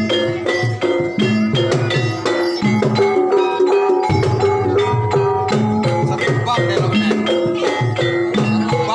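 Banyumasan gamelan music for an ebeg dance: tuned struck keys play a dense, running melody over steady drum strokes.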